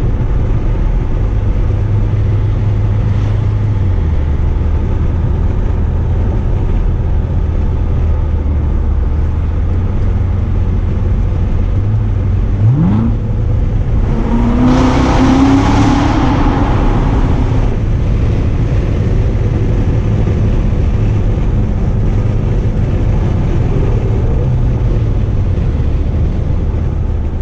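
Supercharged 6.2-litre LT4 V8 of a 2016 Corvette Z06 running steadily at low revs while driving, with a quick rising rev about halfway through, followed by a short louder burst of acceleration before it settles back to a steady cruise.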